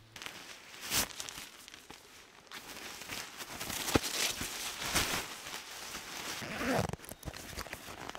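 Irregular rustling, crunching and knocks of someone moving about and handling gear, with a sharper knock about a second in and louder rustling in the middle and toward the end.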